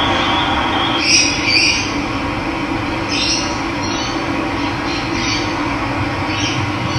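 Steady rush of running water, with a bird giving several short calls over it.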